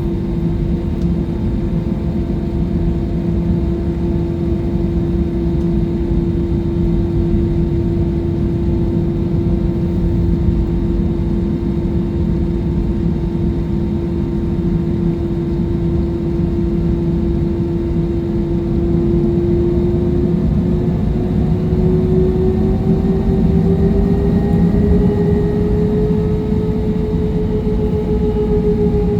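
Jet airliner engines heard from inside the cabin: a steady roar with a whining tone. About two-thirds of the way through, the whine rises in pitch and the sound grows a little louder as engine power increases.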